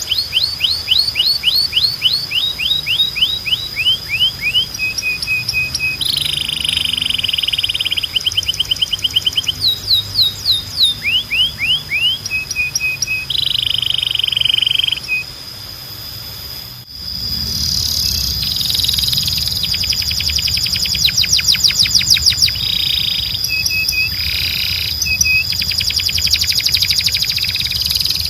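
Domestic canary (Belgian canary) singing: phrases of rapid repeated sweeping notes and buzzy trills, with short pauses between phrases. About seventeen seconds in the song breaks off briefly and resumes, with a steady high whistle-like tone and a low hum underneath.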